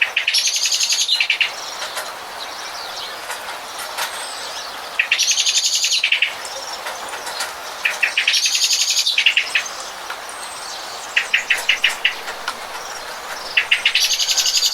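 A songbird sings short, rapid trilled phrases about every three seconds, five times, over a steady hiss of falling rain.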